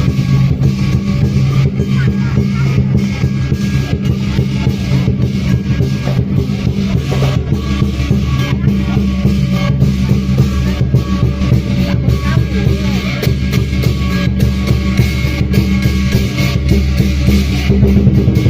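Lion dance percussion: a drum with cymbals and gongs playing loudly and without pause.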